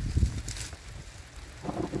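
Low wind rumble on the microphone with a few light knocks; near the end a loud rush of a rainstorm swells in.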